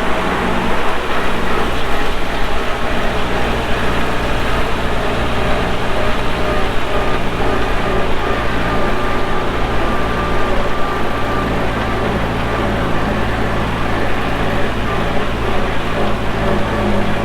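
Antique tractor engine running steadily, a loud low drone that holds one pitch.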